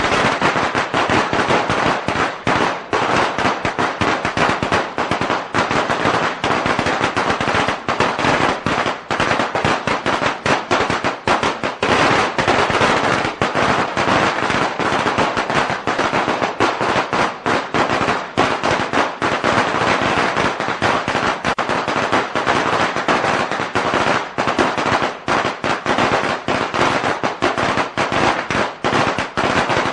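A long string of Chinese firecrackers going off in a rapid, continuous rattle of sharp bangs, with no break.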